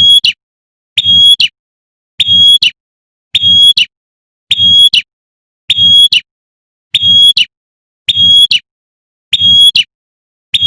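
Female prinia (prenjak) giving its sharp, shot-like 'tembakan' call, the call a female uses to summon a male. The same short call repeats identically about once a second, as a looped lure recording.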